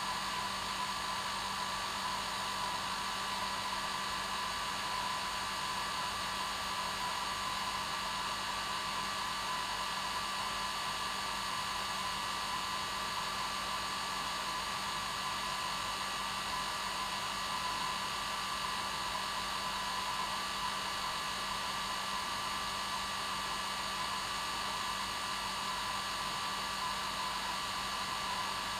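Electric hair dryer running steadily at its normal setting: a constant rushing blow of air with a steady motor hum and whine, no change in speed.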